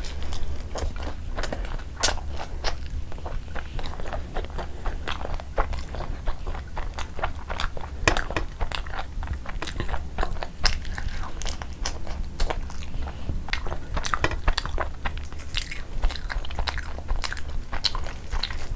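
Close-miked eating sounds: wet chewing, smacking and biting of flatbread soaked in curry gravy, a dense run of sharp clicks and smacks, with fingers tearing bread. A low steady hum lies underneath.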